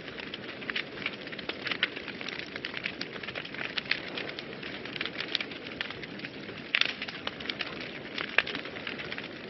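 Wood fire burning in a fireplace: a steady low hiss of flames with irregular sharp crackles and pops throughout, a few louder pops near the end.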